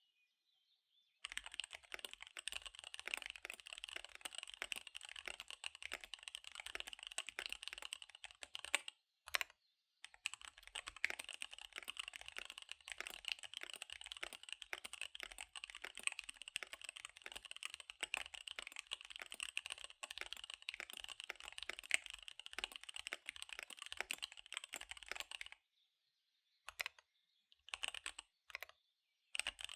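Fast typing on a KBD75 V3 keyboard with SP-Star Dark Magic Girl tactile switches and DSA keycaps: a rapid stream of keystroke clicks that starts about a second in. It pauses briefly near the middle, then stops near the end, broken by a few short bursts.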